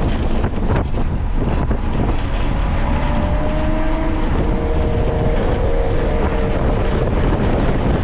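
Car running at speed on a race track, its engine and road noise mixed with wind buffeting on the microphone. A few faint steady tones come in around the middle few seconds.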